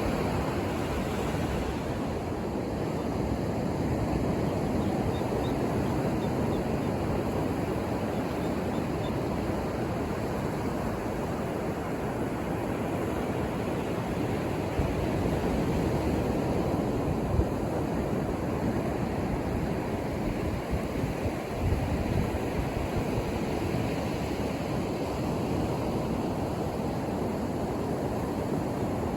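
Ocean surf on a beach: a steady, even rush of breaking waves, with no single crash standing out.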